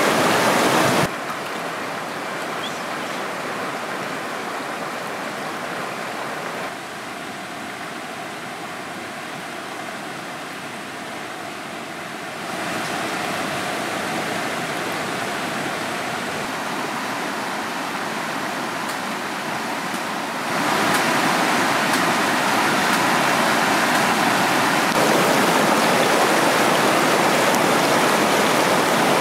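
Rushing water of a waterfall cascade over rocks: a steady, dense rush that drops in level suddenly about a second in and again a few seconds later, then steps back up twice, growing louder toward the end, as the recording cuts between takes.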